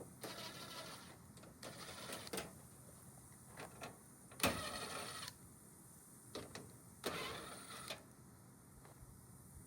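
Metal parts of a scrapped washing machine being pried and pulled apart by hand: several short bursts of scraping and rattling with scattered clicks, the loudest a sharp clank about four and a half seconds in.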